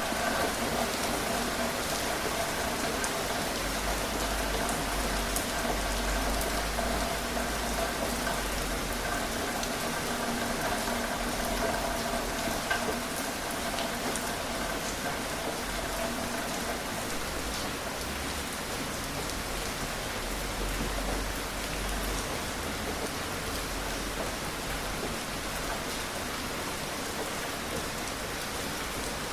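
Steady rain falling on a surface, with scattered individual drops. A faint steady hum runs under it and fades out a little past halfway.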